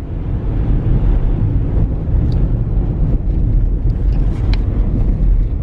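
Steady low road and engine rumble inside the cabin of a Ford Expedition driving along, with a couple of faint clicks.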